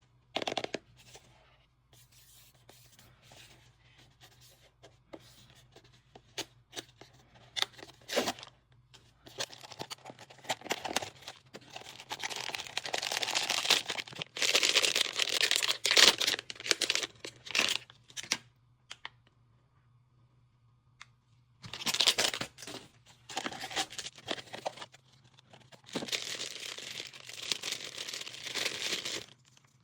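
Blind-box packaging being torn open and handled: scattered clicks and taps, then long stretches of tearing and crinkling of paper and wrapping.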